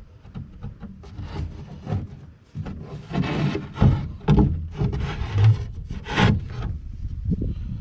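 Plywood floor panel being worked into place, rubbing and scraping with irregular knocks, busier and louder from about three seconds in.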